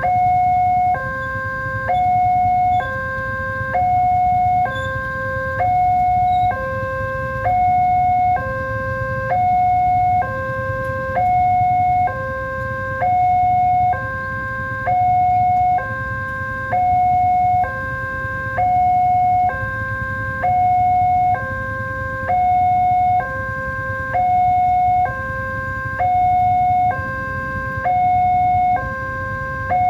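Railway level crossing warning alarm sounding a repeating two-tone high-low signal, switching pitch about every 0.8 s, with a steady low rumble underneath. The alarm signals that a train is approaching and the crossing gates are closing or closed.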